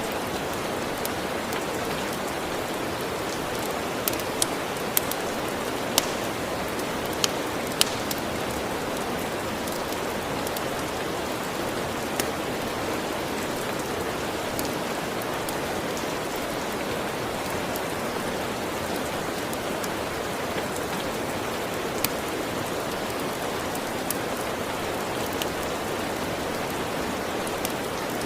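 Steady, even rainfall with occasional sharp crackles of a wood fire, several in quick succession about four to eight seconds in and a few single pops later.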